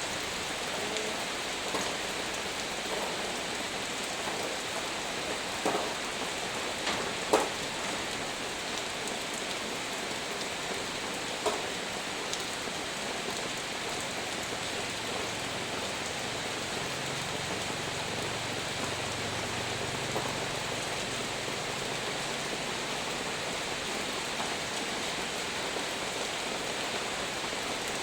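Heavy rain falling steadily, with a few sharp ticks of drops or knocks about six, seven and eleven seconds in.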